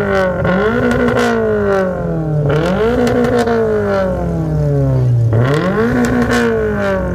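Toyota GR86's flat-four engine revved while parked: the pitch jumps up quickly and sinks slowly back down, about three times.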